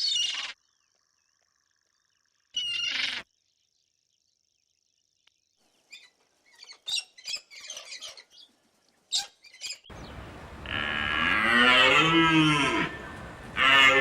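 A few short noisy bursts and scattered clicks, then, about ten seconds in, a loud, long, low animal call, moo-like, whose pitch bends up and down for about four seconds.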